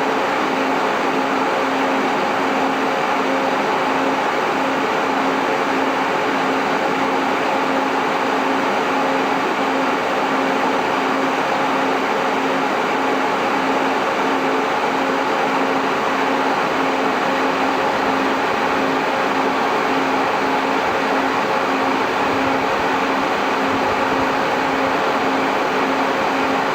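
Cooling fans of an MJ Research PTC-225 Tetrad Peltier thermal cycler running steadily: an even rushing of air with a steady hum in it.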